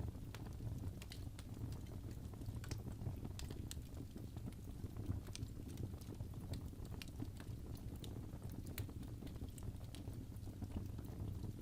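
Wood fire crackling in a fireplace: irregular sharp snaps and pops, a few a second, over a steady low rumble.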